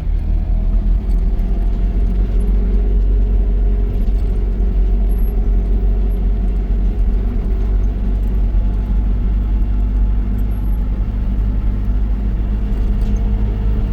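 Motor vehicle driving: a steady low engine and road rumble with a faint, slowly wavering engine hum.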